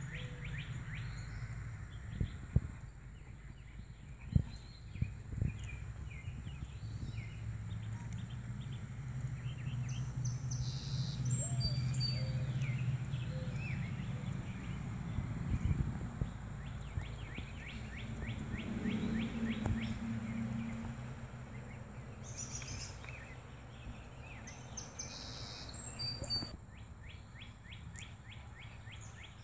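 Outdoor ambience with birds chirping in quick repeated strokes in the background over a low rumble that swells in the middle, with a few sharp knocks in the first few seconds.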